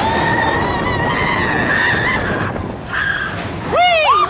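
Riders on the Big Thunder Mountain Railroad mine-train coaster screaming over the train's rumble and wind: one long held scream, then short rising-and-falling whoops near the end.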